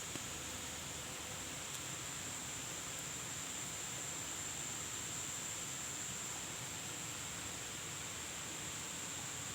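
Steady outdoor ambience: an even hiss with a constant high-pitched insect drone over it.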